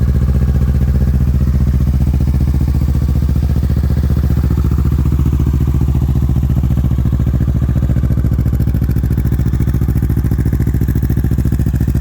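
2023 Kawasaki Ninja 650's parallel-twin engine idling steadily through an aftermarket Yoshimura full exhaust. It is a healthy motor that sounds as it should.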